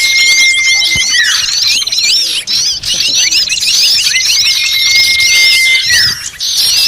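Bird-lure recording of a noisy chorus of many small birds twittering and chattering fast and high, over a rapid buzzy trill. Twice a long, steady high whistle is held and then drops away in pitch, once at the start and again toward the end.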